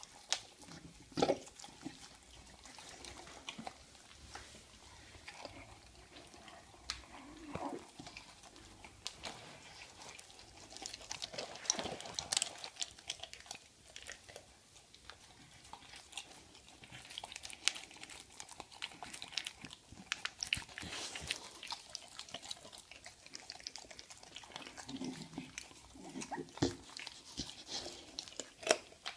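American Staffordshire terrier chewing and crunching a bird: irregular crunching bites, busiest around the middle.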